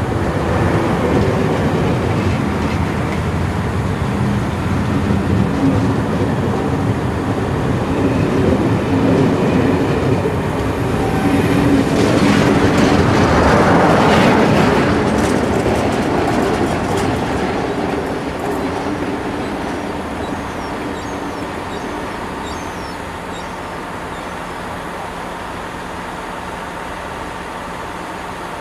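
Steam-hauled passenger train pulling out and rolling past, wheels clattering over the rail joints. It grows loudest about halfway through, then fades away as the train draws off.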